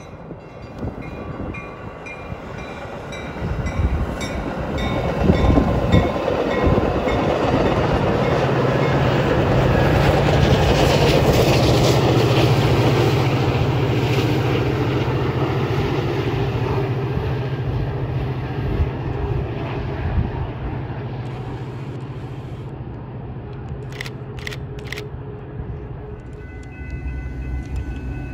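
Metra commuter train of bilevel gallery cars passing on the tracks. The rumble of its wheels and locomotive builds to a peak about ten seconds in, with a steady low hum, then slowly fades. A few sharp clicks come near the end.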